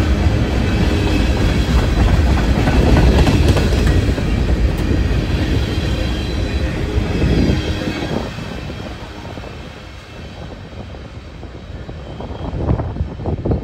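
Covered hopper cars of a Canadian National freight train rolling past on the mainline, steel wheels running over the rails. The rumble falls off about eight seconds in as the last cars go by and the train draws away.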